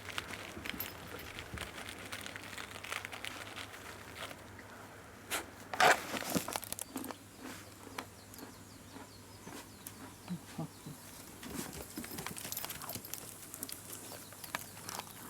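Wrapper crinkling and rustling amid scattered clicks and small knocks, with one sharper knock about six seconds in.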